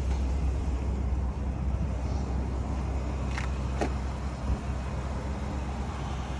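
Bentley Continental GTC Speed's twin-turbo W12 idling with a steady low hum, with two short clicks a little past halfway.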